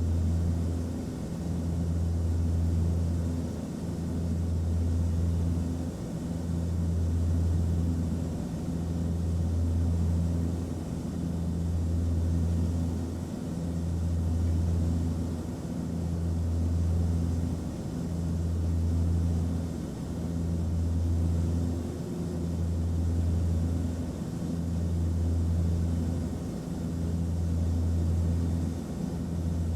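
Airplane cabin noise: a steady low engine drone with air hiss above it, swelling and easing in loudness in a slow, regular cycle about every two seconds.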